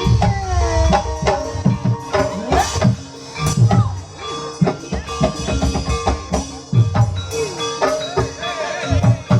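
Live ebeg (kuda kepang) dance music: hand-drum strokes in a steady rhythm under held, struck mallet-percussion tones, with a wavering, gliding melody line above.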